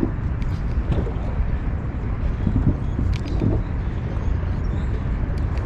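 Steady low rumble of outdoor background noise at a riverbank, with a few faint brief sounds over it.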